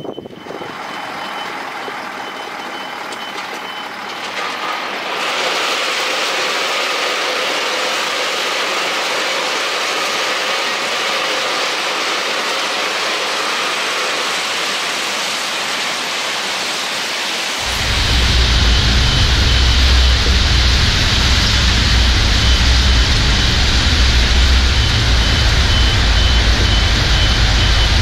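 Tatra Terrno1 tipper truck running with its reversing alarm beeping. The sound grows louder about five seconds in, and a much louder deep rumble sets in about two-thirds of the way through.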